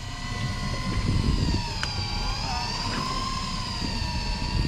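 Electric fishing reel motor whining steadily as it winds in line, its pitch wavering slightly, over the low rumble of the boat.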